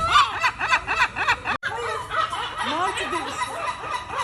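Seagulls calling during a fight: a fast run of short, sharp repeated calls, then many overlapping calls from several birds.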